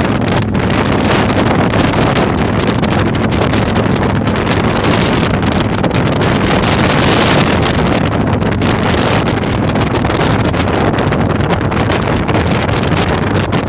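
Heavy wind buffeting on the microphone over the steady running of a Yamaha Virago 1100's V-twin engine while riding, the wind swelling for a moment about seven seconds in.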